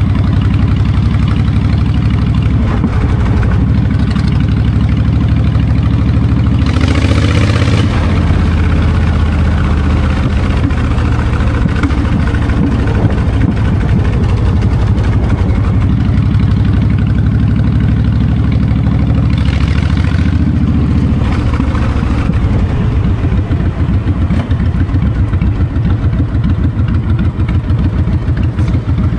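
Honda VTX 1300's V-twin engine running through its exhaust while riding, with wind noise on the microphone. Two brief louder rushes of hiss come about 7 and 20 seconds in.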